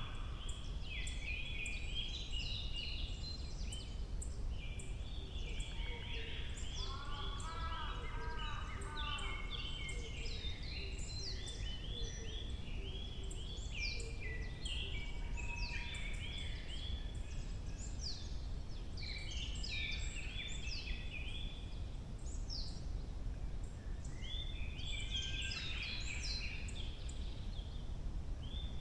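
Dawn chorus of several forest songbirds singing and calling over one another without a break, with a lower run of falling notes about a quarter of the way in. A steady low rumble lies underneath.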